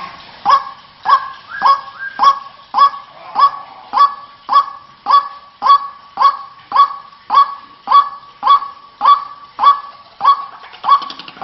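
White-breasted waterhen (ruak-ruak) lure call: a honking note repeated evenly, nearly two a second, each call sweeping quickly up into a steady pitch.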